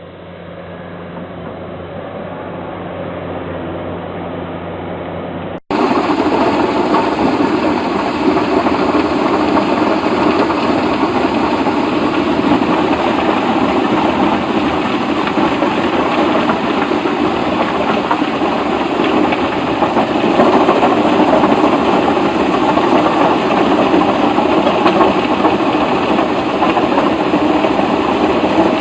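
A heavy machine's engine growing steadily louder, then, after an abrupt cut about six seconds in, a different heavy engine-driven machine running loudly and steadily under load.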